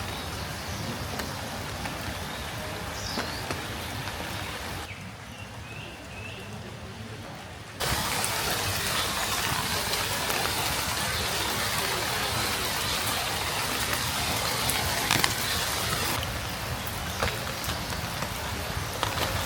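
Steady rain falling, with scattered drops pattering close by and a few short high chirps in the first half. The sound changes abruptly about five seconds in and again about eight seconds in, after which the rain is louder.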